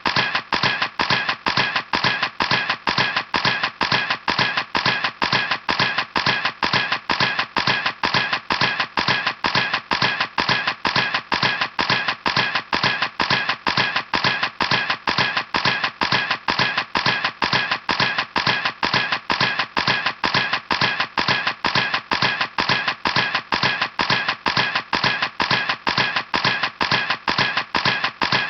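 Camera shutter clicking over and over at an even, quick pace, about two and a half clicks a second.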